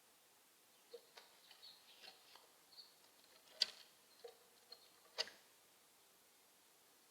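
A mourning dove pecking at seed on a Bird Buddy smart feeder: a string of irregular clicks and taps on the feeder, with two louder knocks about three and a half and five seconds in.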